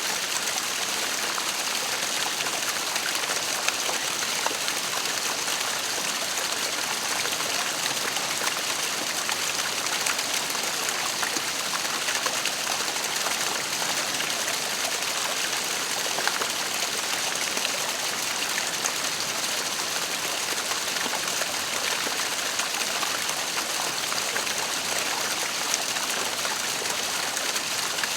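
Waterfall: a steady, unbroken rush of falling water, mostly high and hissing, with small sharper splashes flicking through it now and then.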